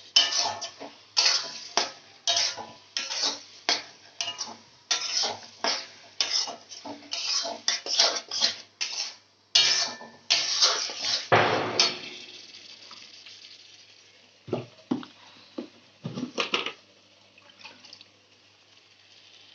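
A spatula scraping and knocking against a cooking pan as a thick cashew and poppy seed paste is stirred in, about two strokes a second. Near the middle it ends with a longer scrape, followed by a few scattered knocks.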